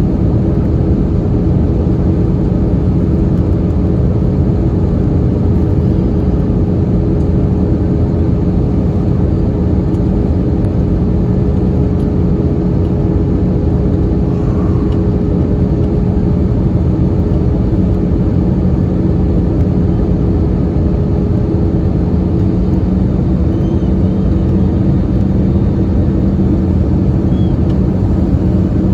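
Steady cabin noise of an Airbus A321-211 in flight, heard from a window seat: airflow rush with a constant engine hum carrying two steady tones, one low and one in the middle range.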